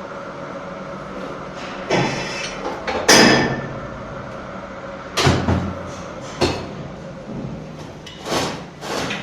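A series of sudden knocks, clunks and short scrapes, roughly one every second or two, over a steady background hum.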